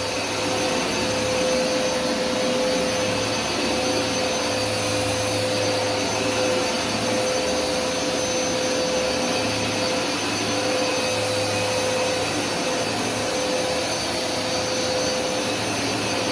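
Hoover SmartWash carpet cleaner running steadily on a dry pass: suction only, no spray, pulling the wash water back out of the fabric. A steady high whine from the motor, with a low hum underneath that comes and goes.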